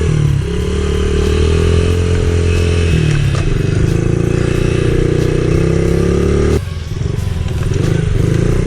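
Small single-cylinder pit bike engine running hard under load. Its pitch drops sharply and climbs back twice, as happens on a gear change, and the engine sound changes abruptly about two-thirds of the way through.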